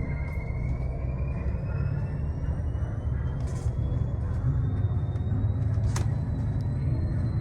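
Tour bus running, heard from inside: a heavy low rumble under a thin whine that climbs slowly in pitch, with a couple of sharp clicks.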